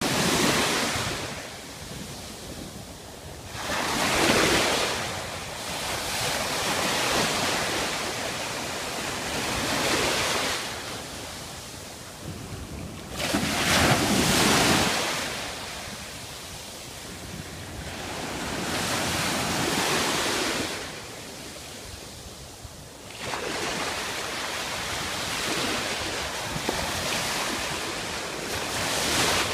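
Ocean waves breaking and washing in, swelling into a loud surge every few seconds, with wind buffeting the microphone.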